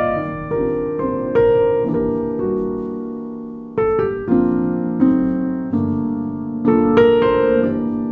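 Calm background piano music: single notes and chords struck every second or so and left to ring and fade.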